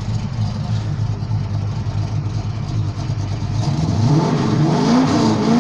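Car engine idling steadily, then revved up hard about three and a half seconds in, its pitch swinging up and down in quick blips of the throttle.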